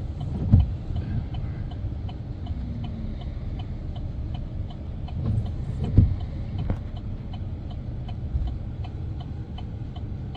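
Pickup truck's turn-signal indicator ticking steadily, roughly twice a second, over the low rumble of the truck driving, heard inside the cab. Two heavy thumps stand out, about half a second in and about six seconds in.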